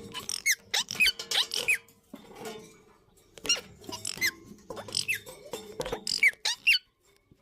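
Indian ringneck parakeets calling: rapid, short, high-pitched squeaky calls that each drop in pitch, coming in three bunches and cutting off shortly before the end.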